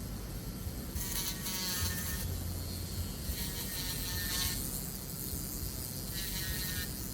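Jeweller's motorised rotary polishing tool running with a steady hum, with three stretches of higher whirring hiss as the ring is pressed to it: about a second in, midway, and near the end.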